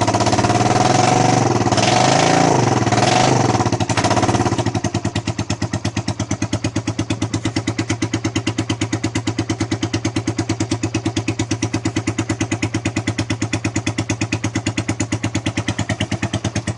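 Suzuki EN125's single-cylinder four-stroke engine running with no exhaust fitted, revved up for the first four seconds or so and then dropping back to a steady, evenly pulsing idle. It is loud because there is no exhaust on it.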